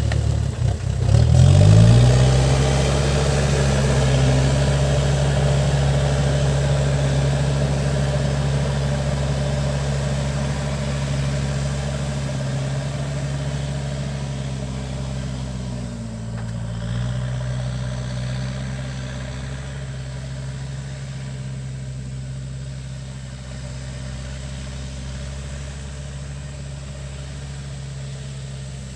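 Backhoe loader's diesel engine running: it revs up about a second in and holds a steady speed, dips briefly around the middle, then runs on steadily while slowly getting quieter.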